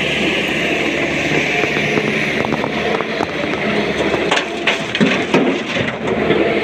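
Excavator diesel engine running steadily under load, with a clatter of rock knocking and scraping from about two and a half seconds in to about six seconds in as quarry stone is loaded.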